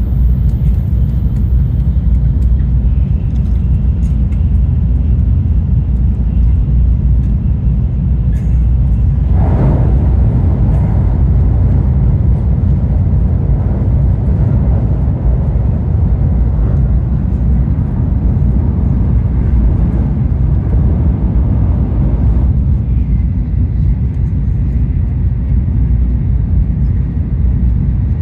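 Shinkansen bullet train running at speed, a steady low rumble in the passenger cabin. About nine seconds in a louder rushing swell starts suddenly and dies away about thirteen seconds later.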